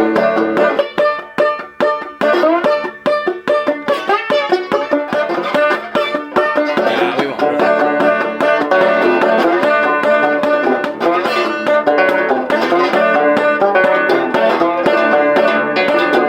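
Six-string banjo-guitar (guitjo) with a banjo head, played clawhammer style with a slide in a Delta blues riff. Choppy picked notes give way about halfway through to fuller, ringing playing with sliding notes.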